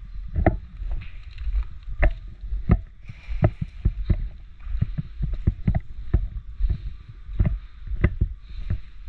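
Footsteps of a person walking over rough ground, thudding about twice a second, with gear rustling and a low rumble of handling on a body-worn camera.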